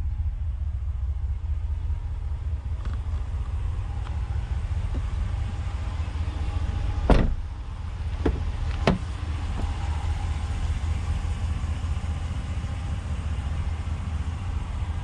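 Steady low vehicle rumble, with one sharp knock about seven seconds in and two lighter clicks over the next two seconds.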